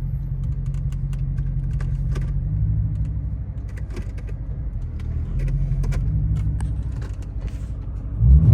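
Chrysler 300's Hemi V8 engine and road rumble heard from inside the cabin, steady and low, with scattered light clicks and rattles.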